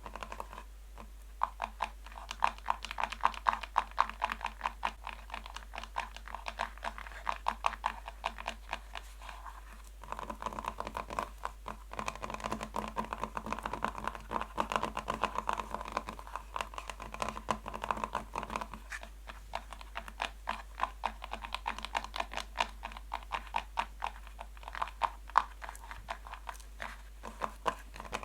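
Natural fingernails tapping fast on a box: dense runs of light, rapid clicks with a hollow ring, broken by brief pauses a few times.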